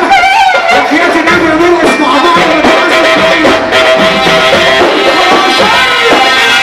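Loud live Egyptian shaabi wedding music: a melody instrument playing a continuous, ornamented Middle Eastern line with pitch bends, over light percussion.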